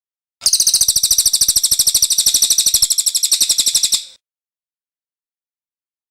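A cililin songbird's high, rapid trill of evenly repeated notes, about seventeen a second, lasting nearly four seconds and stopping abruptly.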